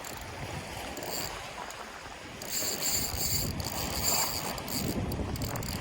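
Rushing, storm-swollen river water with wind buffeting the microphone, growing louder about two and a half seconds in.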